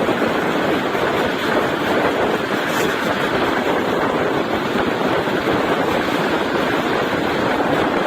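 Steady rushing noise of a passenger train running at speed, an even roar of wheels and air with no clear tones or separate knocks.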